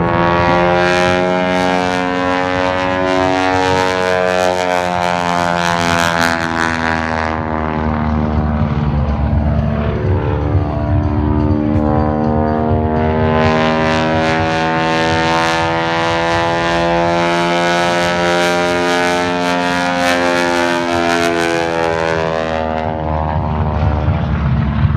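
Single-engine aerobatic propeller plane flying a display, the drone of its engine and propeller sliding up and down in pitch as it manoeuvres. The sound turns harsher and brighter for the first seven seconds and again from about thirteen to twenty-three seconds in.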